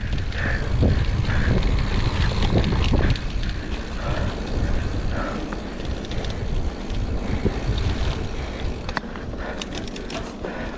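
Mountain bike rolling down a wet, slippery dirt trail: tyres on mud and the bike rattling over the ground under a low rumble, loudest in the first three seconds, with a few sharp clicks near the end.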